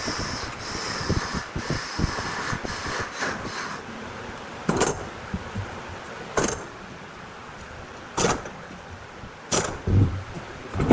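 Handling noises: a rough scraping texture with small clicks, then four sharp knocks about a second and a half apart, and a dull thump near the end.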